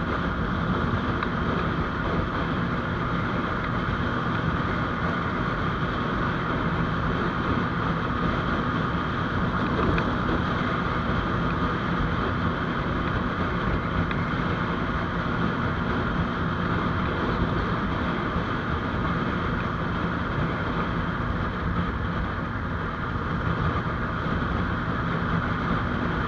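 GPX Demon GR200R motorcycle's single-cylinder engine running at a steady cruise while riding, with wind rushing over the microphone.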